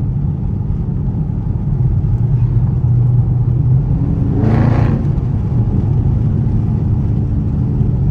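Straight-piped Dodge Scat Pack's 6.4-litre HEMI V8 running steadily at low speed, a loud low exhaust note, with a brief louder burst about halfway through.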